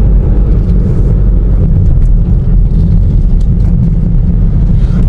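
Car driving: a steady, loud low rumble of engine and road noise, heard from inside the moving car.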